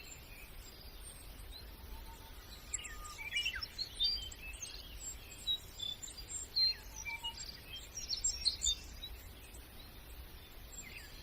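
Small songbirds chirping and twittering in quick short notes, many calls overlapping, over a steady low rumble.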